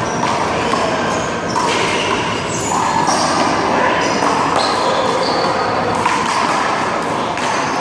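One-wall handball rally: a small rubber ball slapping against the wall and the court, over the chatter of voices.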